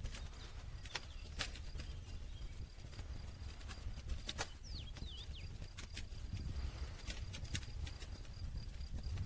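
Wood fire crackling: irregular sharp pops and snaps, about one or two a second, over a steady low rumble of burning.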